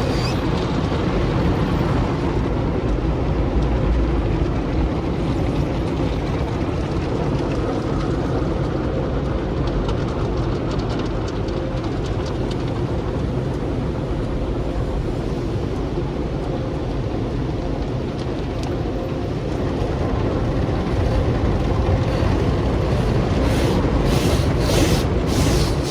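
Sonny's car wash tunnel equipment running, a steady loud rumble and rush. Near the end a rhythmic hissing swish starts, about two pulses a second.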